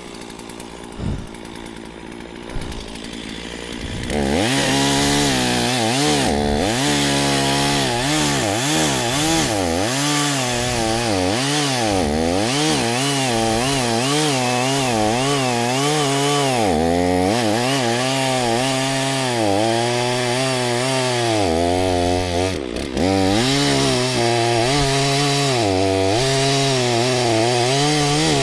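Stihl MS460 two-stroke chainsaw idling for about four seconds, then running at full throttle. Its pitch keeps sagging and recovering as it works through an elm firewood round to cut it in half, with one brief drop near the end before it picks back up.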